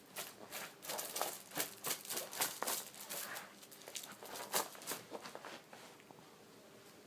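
Cat clawing and kicking at a plush shrimp kicker toy: irregular scratching and rustling scrapes, dying down after about five seconds.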